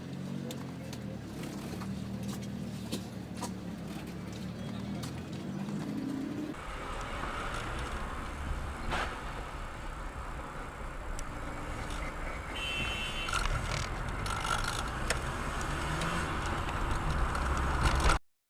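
Car engine and road noise as picked up by a dashcam. About six and a half seconds in the sound changes to a lower rumble and hiss, with a sharp click a little later. It cuts off suddenly near the end.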